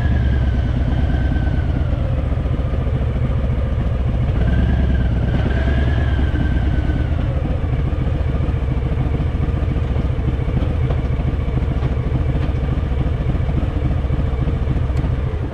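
Harley-Davidson V-twin motorcycle engine running under way, its pitch rising and falling with the throttle in the first half, then holding steadier and lower.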